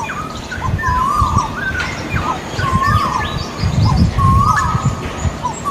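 Male Asian koels calling: a repeated note that rises and then holds, about four times, with smaller birds chirping higher over an uneven low rumble.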